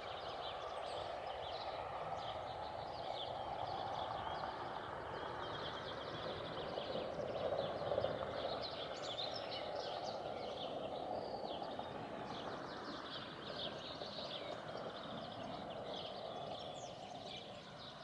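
Many small birds chirping at once, short calls repeating throughout over a steady rushing background.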